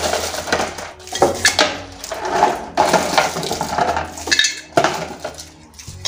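Dishes and kitchen containers clattering and clinking as they are handled and set down, with repeated knocks through the stretch.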